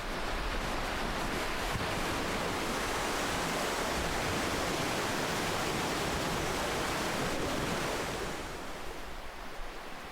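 Ocean surf: a wash of breaking waves that swells in, holds steady, and draws back near the end.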